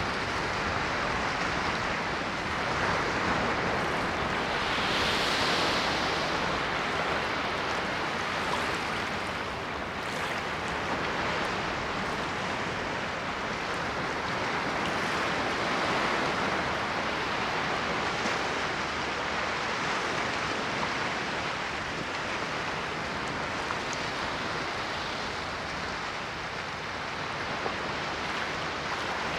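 Ocean waves washing onto a shore: a continuous rushing surf that swells and ebbs, with no distinct crashes.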